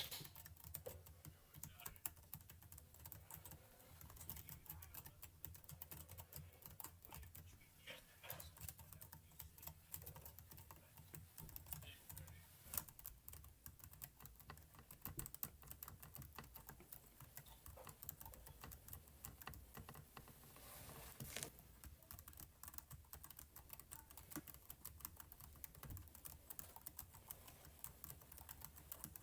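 Computer keyboard typing: faint, quick, irregular key clicks running on without pause.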